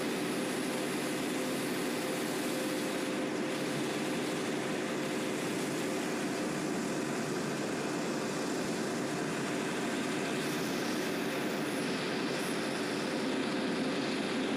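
Diesel train running along the track, a steady drone of engine and wheel noise heard from the front of the locomotive.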